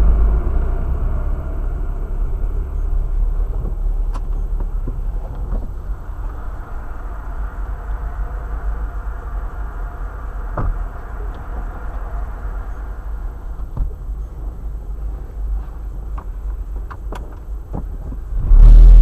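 Road and engine noise inside the cabin of a 2008 Chevrolet Cobalt on the move: a steady low rumble with scattered small clicks and knocks, and a sudden loud low rumble near the end.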